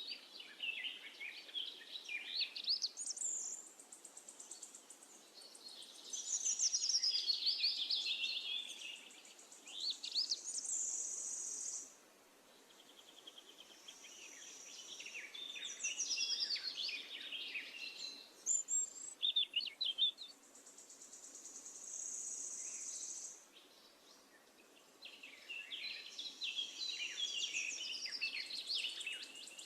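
Songbirds singing over and over in quick, varied high-pitched phrases. A high, steady trill joins in for a few seconds at a time, several times.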